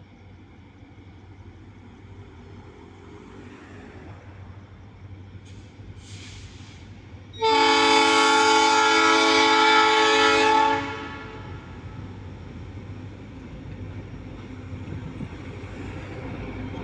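EMD SD40 diesel locomotives hauling an empty iron ore train draw nearer, their low rumble slowly growing louder. About seven seconds in, the locomotive's multi-tone air horn sounds one long blast of about three seconds, then cuts off as the rumble keeps building.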